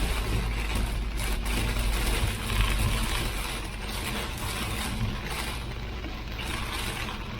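Road and engine noise of a moving vehicle, heard from inside: a steady low rumble under a broad hiss.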